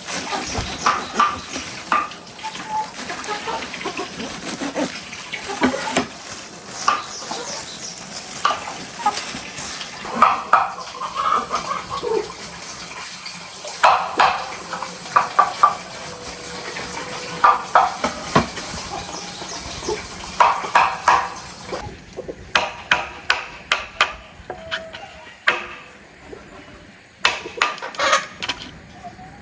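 Chickens clucking in short runs of calls. About two-thirds of the way through, this gives way to sharp knocks in quick clusters, like hammering on wood.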